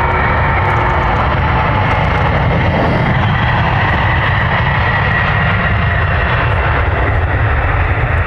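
Jet airliner's engines running loud and steady: a deep rumble with a faint high whine over it.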